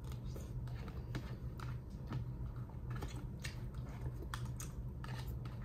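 Someone eating: soft, irregular clicks and smacks of chewing, over a steady low hum.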